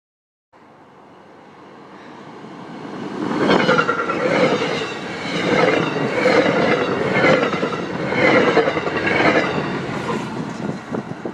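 MBTA commuter rail train approaching at speed, growing louder over the first few seconds, then passing close by with a rhythmic clatter of wheels over the rail joints, about one beat a second.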